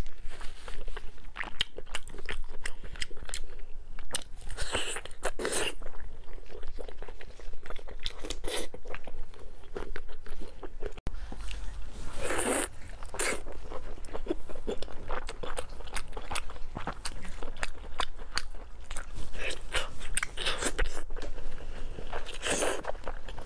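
Close-miked eating sounds: a person biting into and chewing glazed braised pork, with crisp crunches and crackles on each bite and wet chewing in between. The bites come in several louder clusters.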